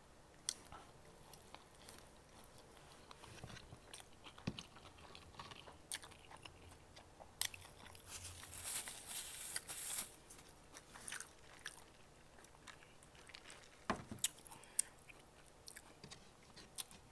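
Faint close-up chewing and mouth sounds of someone eating a bite of a four-patty Quarter Pounder, with scattered small clicks and a few sharper taps. A brief soft rustle comes about eight to ten seconds in.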